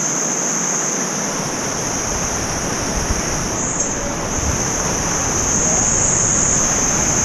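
Steady rush of a waterfall's falling water, with wind buffeting the microphone from about a second in.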